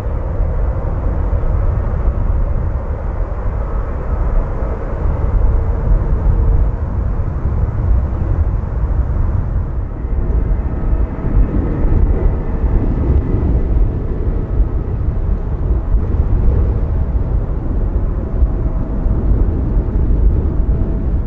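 Jet aircraft engines running, heard as a faint steady whine over a heavy, constant low rumble of wind on the microphone.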